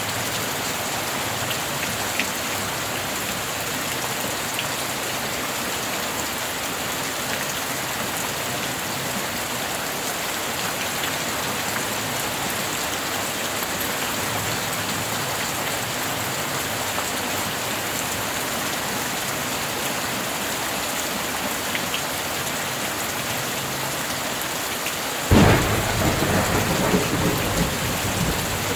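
Steady heavy rain hissing, then near the end a sudden clap of thunder that rumbles on for a few seconds.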